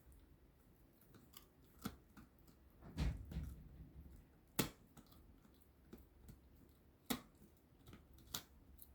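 A puppy gnawing on a dog chew: faint, irregular sharp clicks and crunches a second or two apart, with a duller thud about three seconds in.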